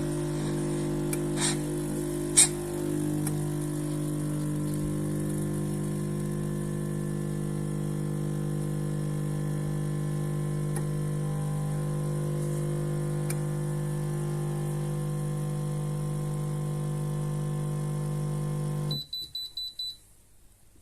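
Espresso machine's pump running with a steady hum, then cutting off near the end, followed by a couple of short beeps.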